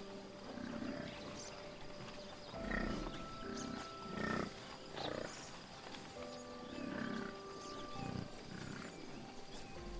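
A series of short animal calls, about eight of them at uneven intervals, over soft background music with held notes.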